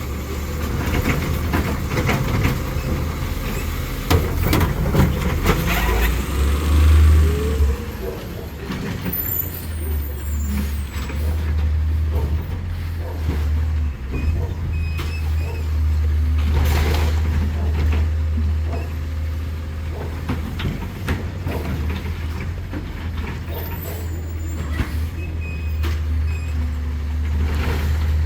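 Autocar ACX New Way Sidewinder side-loader garbage truck running with a steady low engine drone, air brakes hissing, and scattered knocks and clanks, busiest in the first several seconds.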